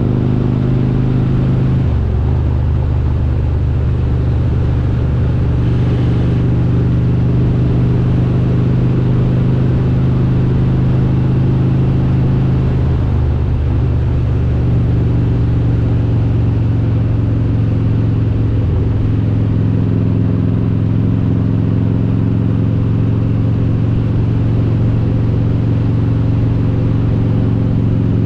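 Harley-Davidson Road King's V-twin engine, built up with an S&S 95-inch kit and Super Stock cylinder heads, running steadily under way. Its note shifts to a new pitch a few times: about two seconds in, near the middle, and again about two-thirds of the way through.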